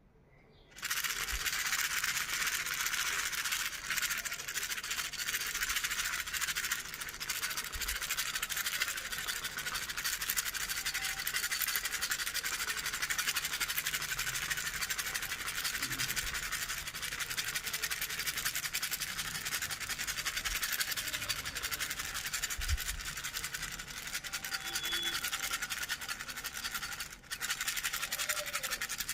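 Handheld toy rattle shaken continuously, making a dense, fast, hissy rattling with a short break about 27 seconds in.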